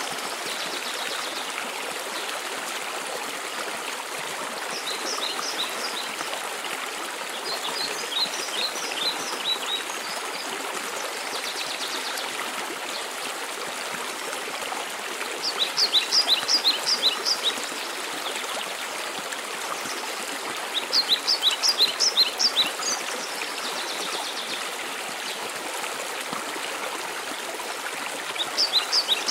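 Steady rush of a mountain waterfall. A bird sings short phrases of quick high notes five times over it, loudest about halfway through and again a few seconds later.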